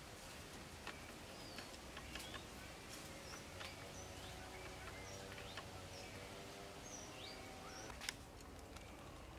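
Quiet rural outdoor ambience with small birds chirping now and then in short, high chirps. A faint drone sits underneath for a few seconds in the middle, and a sharp click comes about eight seconds in.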